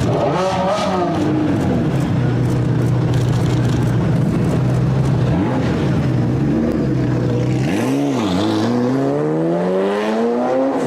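Car engine and exhaust: a quick rev at the start, then idling steadily with a short blip midway, then accelerating with the engine pitch climbing steadily over the last three seconds.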